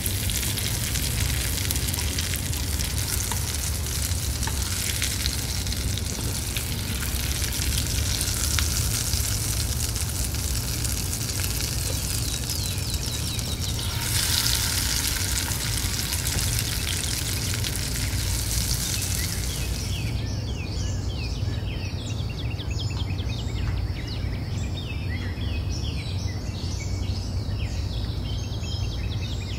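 Chopped onions frying and sizzling in oil in a stainless steel pot while being stirred with a spatula. The sizzle cuts off sharply about two-thirds of the way through, leaving faint short chirp-like sounds over a steady low hum.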